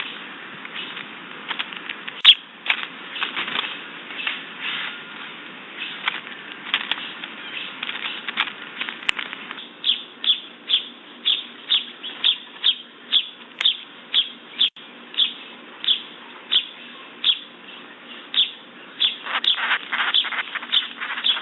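Backyard birds at a feeder, heard through a Ring camera's microphone with the top end cut off: scattered short sounds at first, then a bird's short chirps repeated evenly about twice a second, ending in a quicker flurry of chirps.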